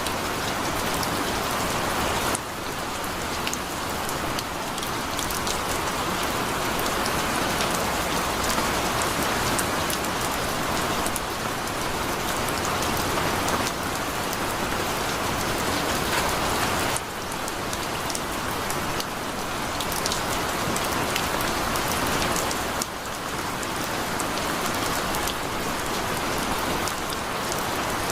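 Heavy rain falling steadily: a dense hiss with scattered sharp drop ticks, easing slightly three times.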